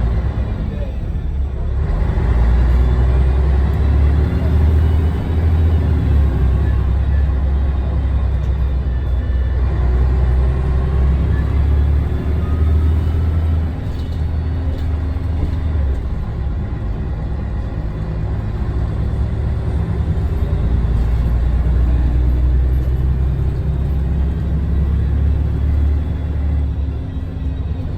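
Scania DSC1171 11-litre six-cylinder diesel engine of a Scania L113TRB bus running under way, with a deep rumble. Its note climbs slowly and then drops back a few times, about 1, 10 and 14 seconds in.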